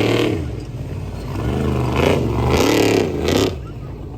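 Truck engine revving hard in repeated rises and falls, surging at the start and again from about two to three and a half seconds in, then easing off.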